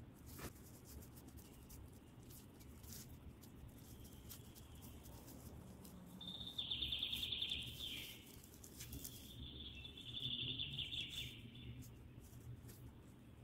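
A small bird twittering in rapid trills, one burst about six seconds in and a longer one around nine to eleven seconds, over scattered faint clicks.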